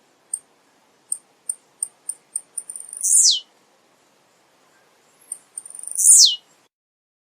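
Male blue-black grassquit (tiziu) singing: a run of short, high ticks, then two loud notes about three seconds apart, each sweeping steeply down in pitch.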